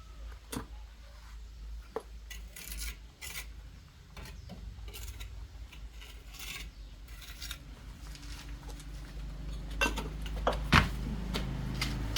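Hand-work noises: intermittent scraping and rubbing with scattered light knocks, growing busier toward the end, with one sharp knock near the end.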